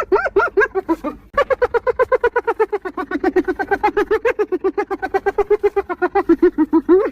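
Spotted hyena 'laughing': a fast, even run of high-pitched giggling yelps, several a second, breaking off briefly about a second in and then running on unbroken.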